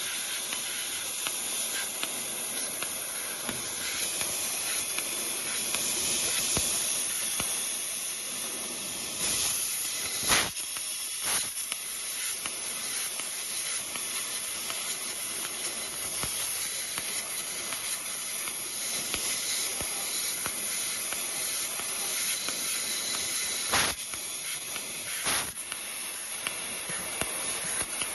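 Fiber laser cutting machine running: a steady, high hiss, with a few short sharp clicks scattered through it.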